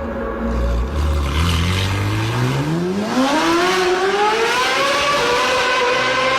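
V8 supercar engine accelerating hard: from a low rumble about a second in, the revs climb steadily for about three seconds, then hold high to the end.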